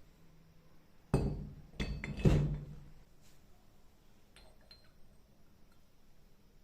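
Three sharp metallic clinks about a second in, the last the loudest, each ringing briefly, as hard metal pieces knock together.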